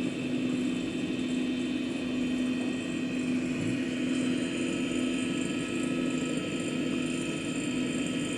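Steady, unchanging engine drone with a constant low hum, typical of a news helicopter's engine and rotor heard from inside the cabin.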